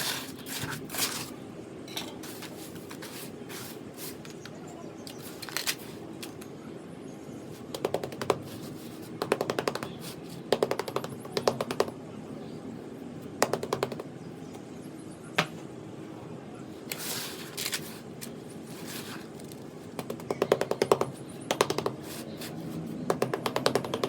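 Quick runs of tapping on gritty sand-cement blocks: several bursts of rapid taps a few seconds apart, with short gritty rustles between them.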